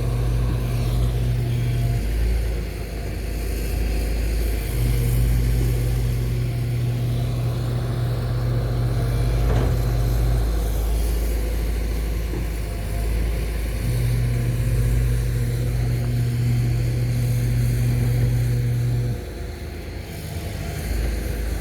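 Backhoe excavator's diesel engine running with a continuous low rumble. A steadier low hum on top comes in and drops out in spells of several seconds as the machine works.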